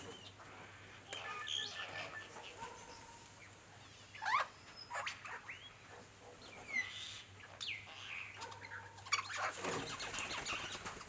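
Superb lyrebird singing: a varied run of short whistles, up- and down-sweeping calls and sharp clicks, busiest in the second half.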